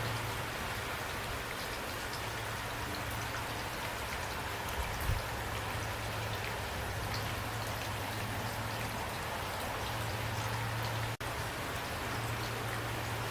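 Steady heavy rain falling, with individual drops ticking sharply over the hiss and a steady low hum underneath. The sound cuts out for an instant about eleven seconds in.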